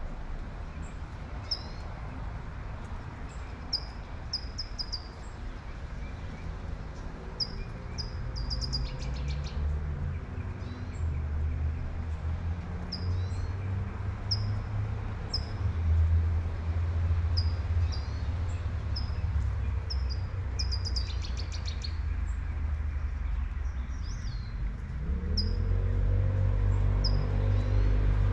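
Birds chirping in short repeated high notes, with two brief buzzy trills, over the steady hiss of light rain and a low traffic rumble. Near the end a vehicle passes, its engine note rising and getting louder.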